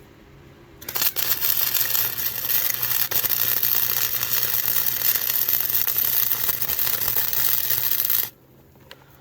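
MIG welder arc crackling steadily as a continuous weld bead is run along a crack in a steel go-kart frame to fill it in; it strikes about a second in and cuts off abruptly near the end.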